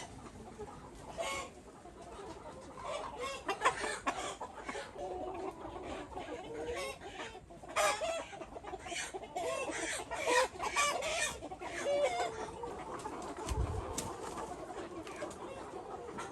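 A flock of chickens clucking and calling, many short, overlapping calls coming and going, with a brief low thump about thirteen seconds in.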